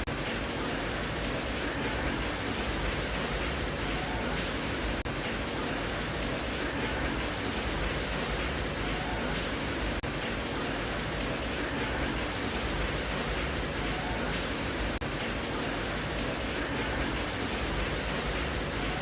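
Steady rain, an even hiss of falling water without breaks or changes.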